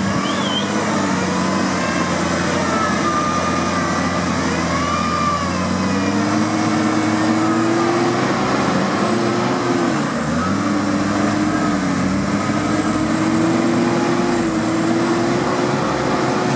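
Off-road vehicle engine running under changing throttle, its pitch climbing, dropping sharply about ten seconds in, then climbing again.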